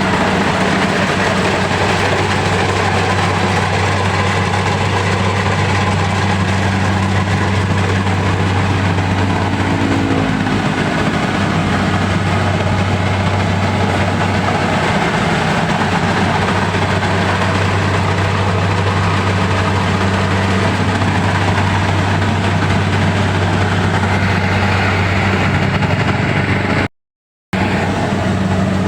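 A heavy engine running loud and steady, with a constant low hum, cutting out briefly near the end.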